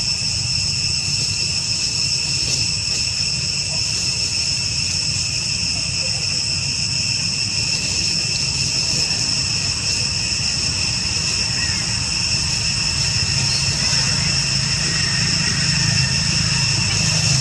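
Steady, unbroken droning of insects in high pitched tones, over a constant low rumble.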